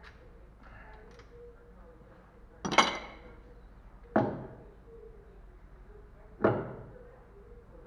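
Three hard metallic knocks, about one and a half to two seconds apart, each with a short ringing decay; the first is the loudest and brightest.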